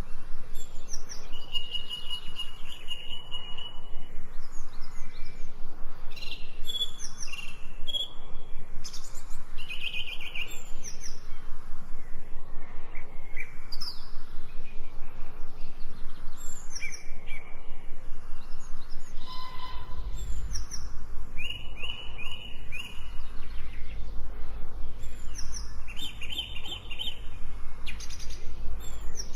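Several songbirds singing and chirping in a forest, short whistled phrases and trills overlapping one another, over the steady rushing of a small stream. About two-thirds of the way through a low rumble sets in underneath.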